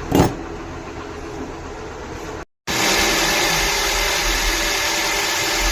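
A knock about a quarter second in over a low steady noise, then after an abrupt cut a Hyundai Grand i10's engine idling steadily, louder, with a steady hum running through it.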